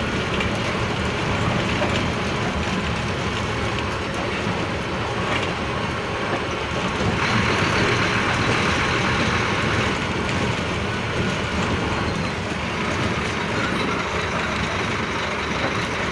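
Scania bus under way: its diesel engine running steadily with road noise, and a louder hiss for a few seconds midway.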